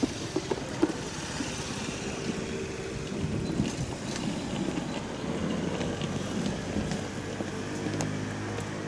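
Seibu Tamako Line electric train running up to the level crossing: a steady motor hum with wheel and track noise, growing stronger near the end.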